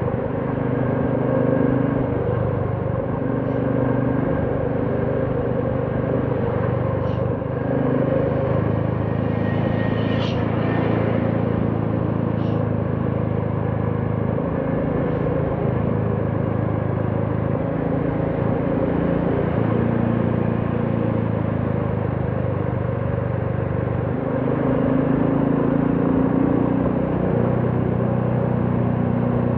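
Royal Enfield Classic 350's single-cylinder engine and exhaust running under way, its note stepping up and down every few seconds as the throttle changes, over road noise. A few short ticks come between about three and fifteen seconds in.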